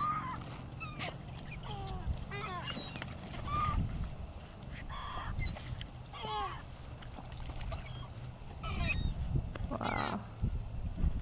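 A flock of gulls calling over the water: many short calls that rise and fall in pitch, scattered and overlapping, over a steady low rumble.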